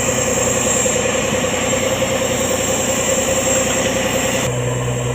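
Fishing boat's engine running steadily, a loud continuous hum with rushing noise over it; the sound changes abruptly to a lower, steadier hum about four and a half seconds in.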